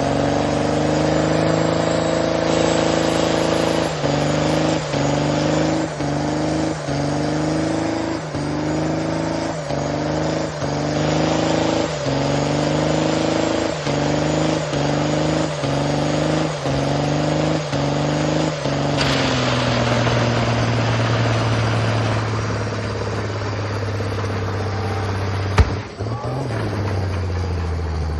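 Vehicle engine held at high revs, its note dipping briefly about once a second for a stretch, then easing off to a lower steady note that sinks further near the end. A single sharp knock comes shortly before the end.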